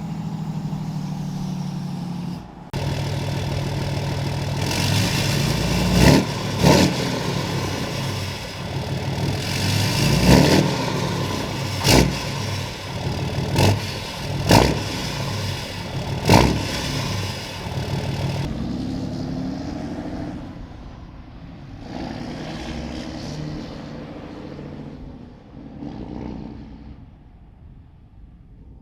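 Deleted 6.7 Cummins straight-six diesel running loud through a straight-piped exhaust, with a string of short, sharp bangs in the middle stretch. It falls quieter in the last third.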